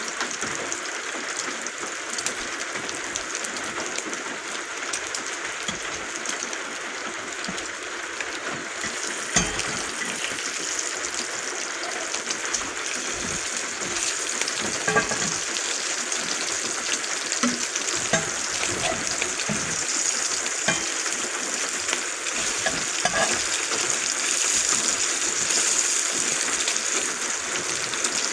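Food frying in a pan on a small isobutane camp stove: a steady sizzle full of small crackles and pops, growing a little louder in the second half.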